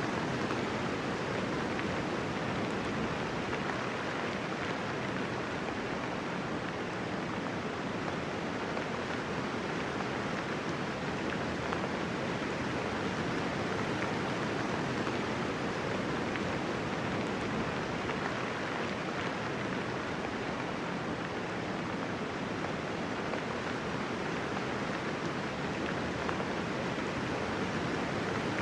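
Steady, even hiss of rain falling, with no thunder and no distinct single drops.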